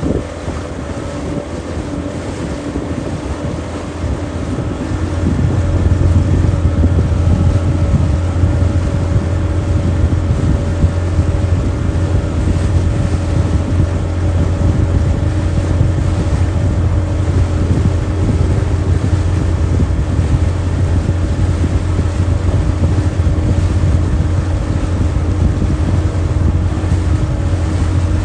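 Motorboat engine running steadily under wind buffeting the microphone; about five seconds in, the low rumble grows markedly louder and stays so.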